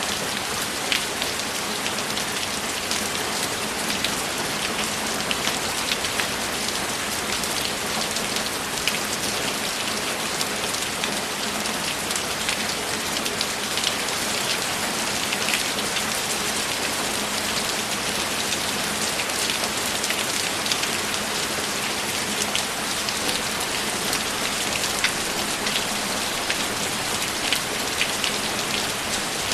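Steady rainfall, with many close raindrops ticking sharply on a hard surface over a constant hiss.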